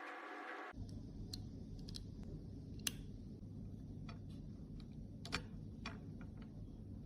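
Scattered small sharp clicks and taps, at irregular spacing, from makeup tools and cosmetic cases being handled, over a steady low rumble. A brief tonal hum at the start cuts off abruptly under a second in.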